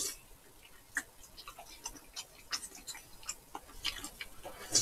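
Close-miked chewing of chewy glass noodles (dangmyeon): a string of small, irregular wet mouth clicks and smacks.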